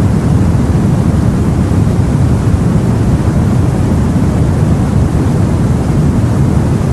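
Steady, deep rumbling wash of the sea heard from aboard a boat, with no single wave or splash standing out.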